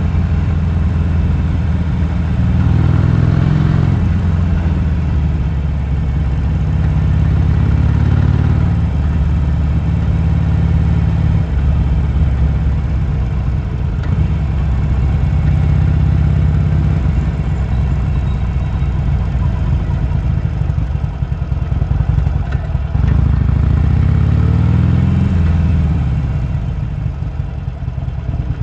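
Harley-Davidson Sportster's V-twin engine running in stop-and-go riding, the note rising and falling a few times as it is throttled up and eased off, and holding steady in between.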